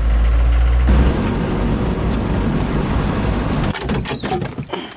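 A vehicle running: a strong low engine rumble for about a second, then a steady rumbling noise of it travelling, with a few knocks and rattles near the end.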